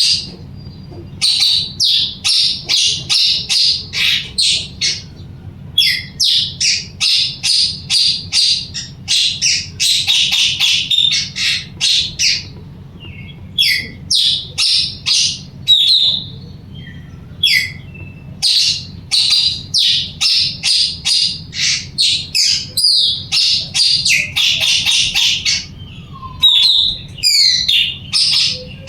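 A puling songbird calling vigorously: runs of rapid, sharp, high-pitched notes, several a second, each run lasting a few seconds with short pauses between.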